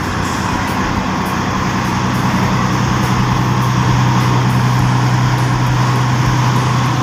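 A vehicle engine running at a steady pitch, a constant low hum under an even hiss, starting and cutting off abruptly.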